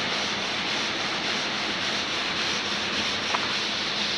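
Multi-blade marble gang saw cutting through a stone block under running water: a steady grinding noise with a faint low hum from its belt drive.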